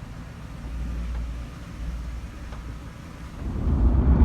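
Vehicle driving, a steady low rumble that swells sharply louder and rougher about three and a half seconds in.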